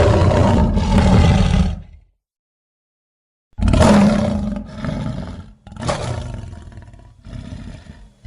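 Lion roaring, as a stock sound effect: one loud roar of about two seconds, a pause, then a second loud roar trailing off into a series of shorter, fading roars.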